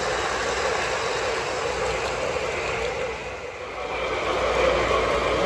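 Model train running along a layout's track, a steady whir and rumble that fades briefly and then comes back up.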